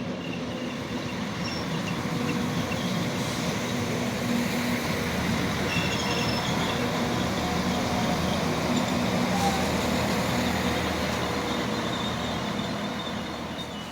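Passenger train running alongside the platform. It builds over the first couple of seconds, holds steady with a low engine hum under the rail noise, and fades near the end.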